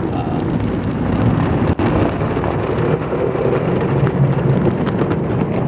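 Automatic tunnel car wash spraying the car, heard from inside the cabin: a loud, steady rush of water drumming on the roof and windows.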